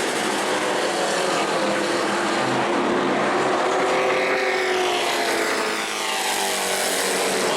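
A pack of short-track racing trucks running at speed on an oval. The engines sound over one another, and their pitch falls as trucks go past, mostly around the middle of the clip.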